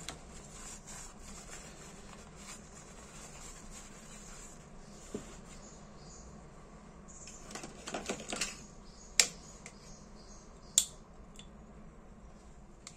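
Dupont L2 lighter being handled and tested: faint fiddling noises, a short cluster of clicks about eight seconds in, then two sharp clicks a second and a half apart.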